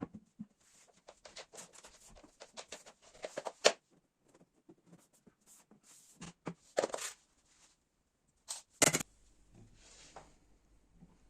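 Objects being handled: a string of light clicks, taps and rustles, with sharper knocks near 4 seconds, near 7 seconds and, loudest, near 9 seconds, after which a faint low hum sets in.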